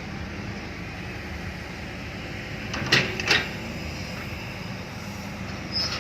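Excavator's diesel engine running steadily, with two sharp knocks close together about halfway through.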